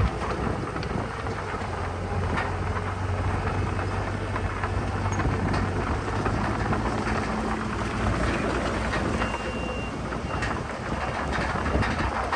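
Diesel engine of heavy earthmoving machinery running steadily, with scattered clanks and rattles. A brief high tone sounds about nine seconds in.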